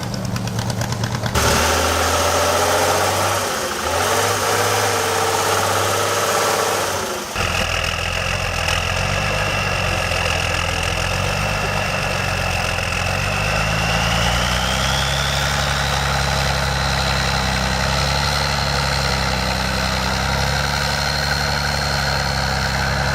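Heavy off-road trial truck engines running and revving, the sound changing abruptly about one second and again about seven seconds in. From about seven seconds a steady high whine runs with the engine and rises in pitch around the middle.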